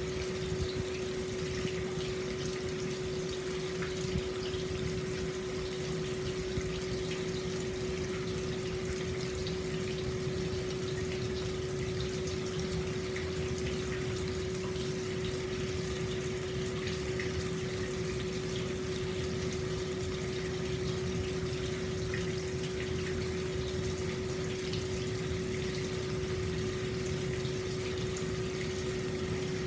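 Hot spring water flowing steadily into an open-air bath, an even splashing rush, with a steady hum held on one note.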